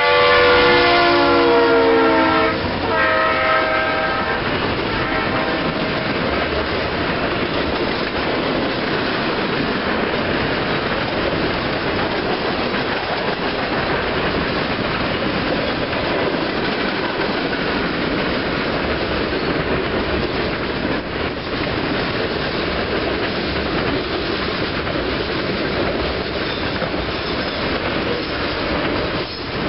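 Norfolk Southern freight train passing: the lead locomotive's air horn sounds a chord that drops in pitch as it goes by, then a short blast about three seconds in. After that come the steady rumble and clatter of freight cars rolling past.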